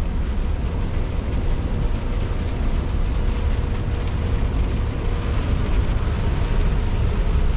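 Scania R620 16-litre V8 diesel truck engine running under way, with road noise, heard from inside the cab: a steady low rumble with no changes.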